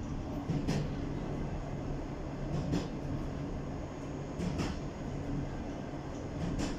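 Train rumbling along the track, heard from inside the last car, with a low hum and sharp wheel clacks over rail joints every couple of seconds, some coming as quick pairs.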